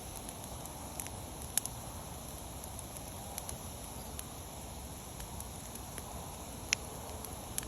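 Wood fire burning: a steady hiss with scattered sharp crackles and pops. The loudest pops come about a second and a half in and again near the end.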